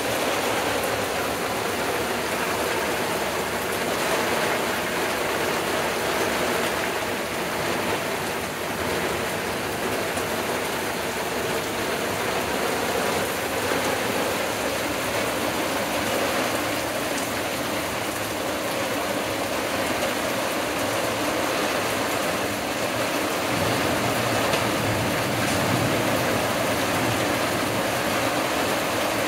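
Heavy rain falling steadily on the trees and the wooden deck, an even, dense hiss. A low rumble comes in about three quarters of the way through and stays.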